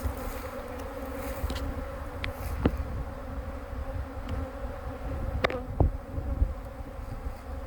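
A honey bee swarm buzzing, a steady dense hum of many wings, with a few faint clicks about a third and three quarters of the way through.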